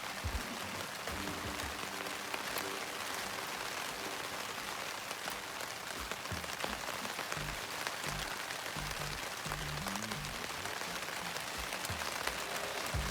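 Steady rain falling, with background music underneath.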